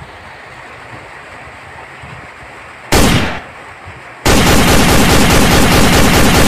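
Gunfire sound effects: one sudden loud bang about three seconds in, then a long burst of rapid machine-gun fire from just past four seconds.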